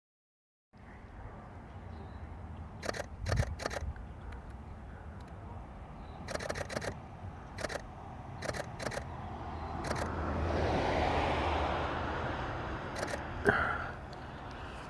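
Canon R5 shutter firing in short bursts of sharp clicks, several times, as turtles are photographed. Behind it is a steady low rumble of distant traffic that swells about ten seconds in.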